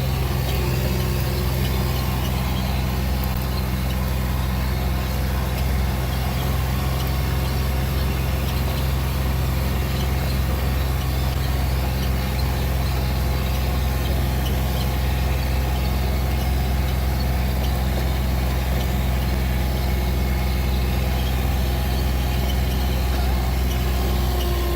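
Vehicle engine running steadily with road noise, a continuous low drone with no change in speed.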